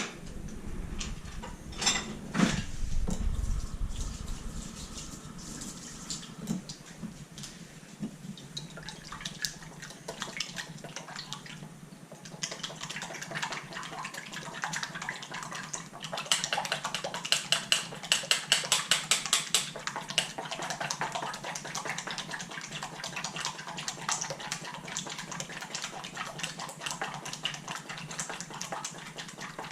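A few sharp knocks and clatter, then water running from a kitchen tap with quick, rapid rubbing and splashing strokes.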